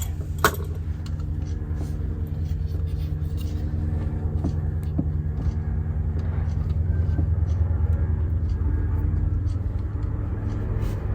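Steady low rumble and hum, with scattered light clicks and knocks of handling while electrical wire is fed through the wall.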